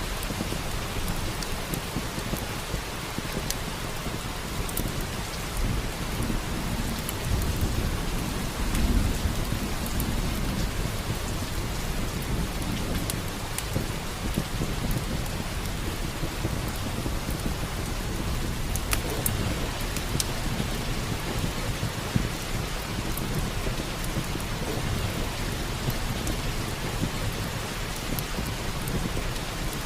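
Steady rain with a low rumble of thunder swelling and fading about seven to ten seconds in, and scattered sharp crackles of a wood fire in a fireplace.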